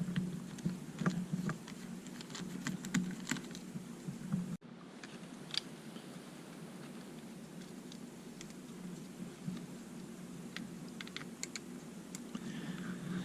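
Small screwdriver backing screws out of a drone's motor housings: scattered faint clicks and ticks of the tool and small parts.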